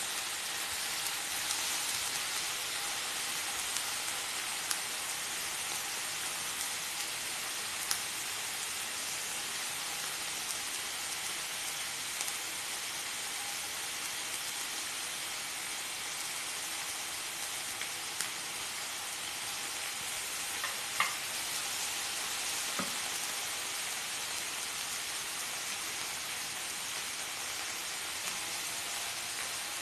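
Pork sizzling in a nonstick pan: a steady frying hiss with a few sharp pops of spitting fat.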